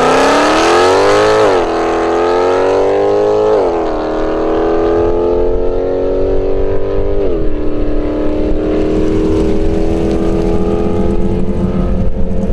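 Mercedes C63 AMG's 6.2-litre V8 through a resonator-deleted exhaust, accelerating hard away. The pitch climbs and drops sharply at three upshifts, about one and a half, three and a half and seven and a half seconds in, then climbs slowly and evenly as the car draws away.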